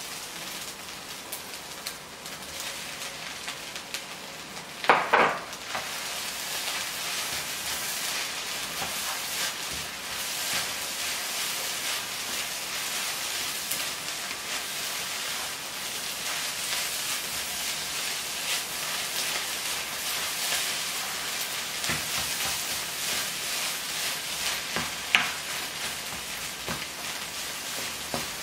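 Garlic fried rice sizzling steadily as it is stirred and tossed in a nonstick pan, with the utensil scraping and tapping against the pan. A loud scrape comes about five seconds in, and a shorter one near the end.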